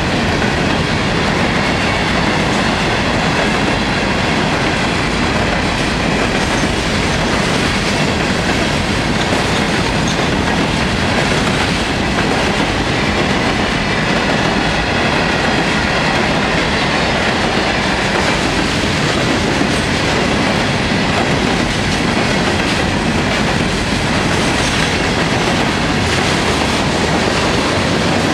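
Cars of a long freight train rolling steadily past, a continuous rumble and rattle of steel wheels on the rails.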